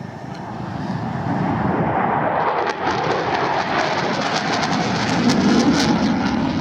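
Aircraft flying past, its engine noise swelling over the first two seconds into a loud, steady rumble with a fluttering edge.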